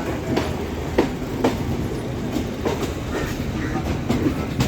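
Moving passenger train: a steady rolling rumble with irregular sharp clacks as the wheels pass over rail joints and points.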